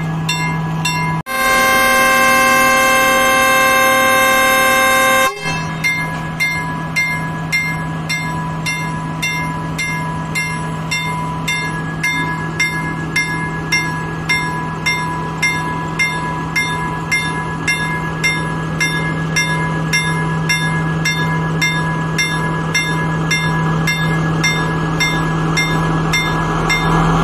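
Diesel passenger train's horn sounding one long blast of about four seconds, then the train's engine running steadily while it stands at the platform, with a regular clicking a little faster than once a second. The engine grows louder near the end as the train gets ready to pull away.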